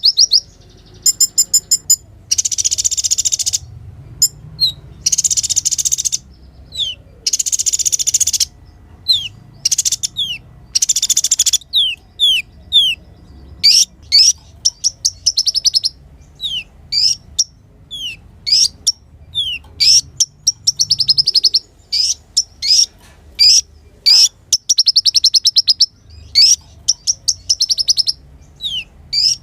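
Kolibri ninja sunbird singing a high-pitched, fast song: rapid trills and harsh buzzy bursts, then series of short falling notes and trilled phrases repeated in quick succession.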